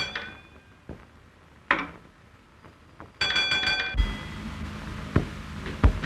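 Signal-box bells: a single ringing bell stroke at the start, then about three seconds in a short burst of rapid continuous electric ringing that cuts off abruptly, with a few dry knocks of the instruments around them.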